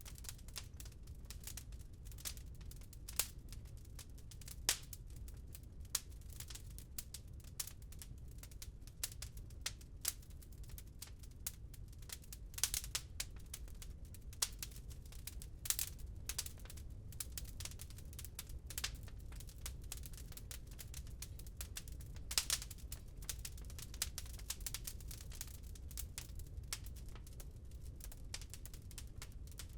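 Wood fire crackling in a fireplace: a continual scatter of small irregular pops and snaps, with a handful of louder cracks, over a low steady rumble.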